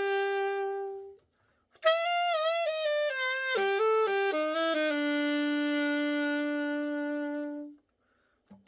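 Selmer Mark VII alto saxophone, freshly given a full overhaul, played solo: a held note that stops about a second in, then after a short pause a phrase of changing notes that settles on a long low held note and ends near the end.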